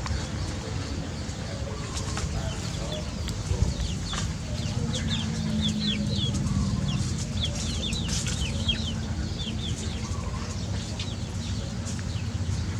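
Chickens, mainly chicks peeping: many short, high, falling peeps in quick succession over a steady low rumble.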